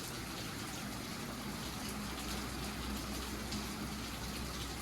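Heavy rain pouring down steadily in a moderate-to-heavy downpour, with water running and gushing.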